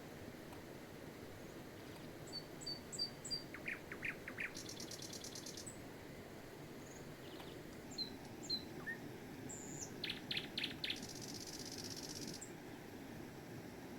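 Small birds chirping and calling: scattered short high notes, quick clusters of calls, and two rapid high trills, one about a third of the way in and a longer one near the end. Under them runs a steady low background rush.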